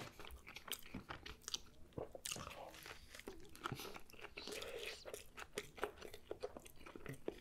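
Close-miked eating sounds: faint, irregular wet clicks and smacks of chewing a sauce-soaked pita wrap, with sucking sauce off a finger.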